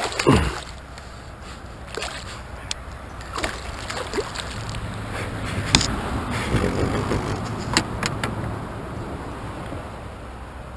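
Water splashing and sloshing around a fishing kayak, with scattered sharp knocks and clicks against the hull and gear.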